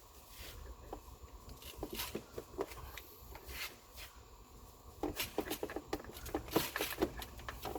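Irregular small clicks and knocks of hands pressing and working a part free in an engine bay, sparse at first and coming thick and fast from about five seconds in.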